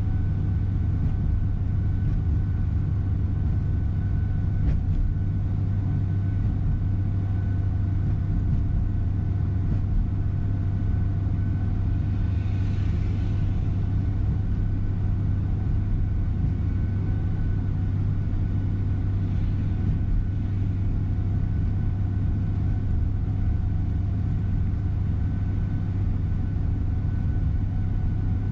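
Tour coach bus driving on the road, heard from inside the cabin: a steady low engine and road rumble, with a brief hiss about halfway through.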